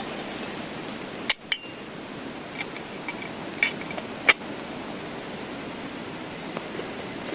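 A handful of sharp clinks of camp cookware and utensils, the loudest about four seconds in, over the steady rush of a mountain stream.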